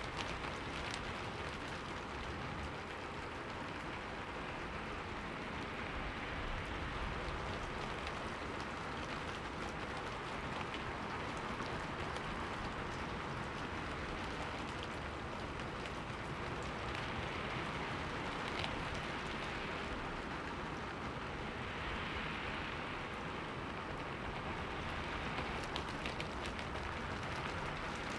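Steady rain, with faint scattered drops ticking against a window pane.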